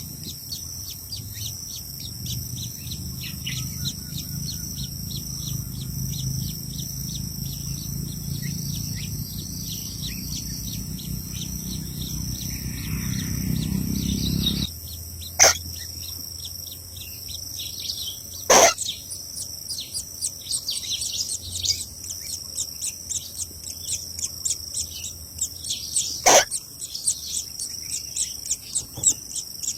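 Insects droning steadily at a high pitch, with many short bird chirps throughout and three loud, sharp sounds in the second half. A low rumble cuts off suddenly about halfway through.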